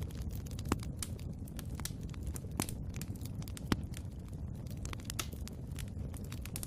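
Wood fire burning in a fireplace: a steady low rumble of flames with irregular crackles and snaps of burning wood, sharper pops about a second in and again near the middle.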